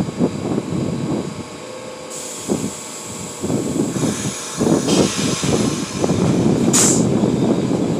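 R46 subway train running over the rails, its wheel rumble and clatter building from scattered thumps to a steady, dense rumble by about halfway through, with a short hiss near the end.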